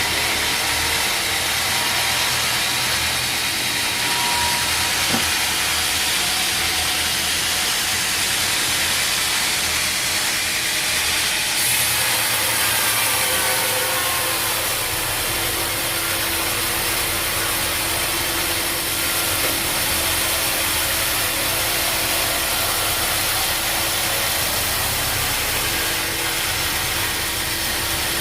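Sawmill machinery running, with a saw cutting through a log: a steady, loud mix of motor hum and hissing sawing noise. The sound changes abruptly about twelve seconds in and then carries on steadily.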